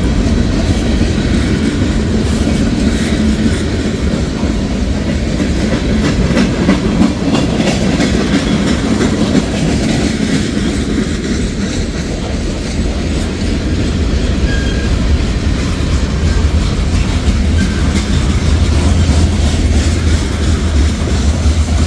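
Freight cars of a Norfolk Southern manifest train rolling past: a steady rumble of steel wheels on rail, with clickety-clack as the wheels cross rail joints.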